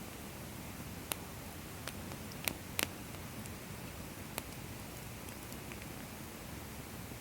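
Wood fire crackling in a bonfire stand: a steady low hiss of burning with scattered sharp pops from the firewood, the loudest a double pop a little before three seconds in.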